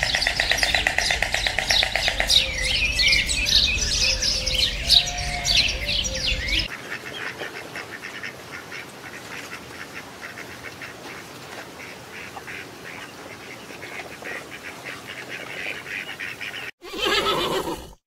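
Birds calling in a dense, rapid chorus for about the first seven seconds, then quieter, sparser duck calls. A horse whinnies briefly near the end.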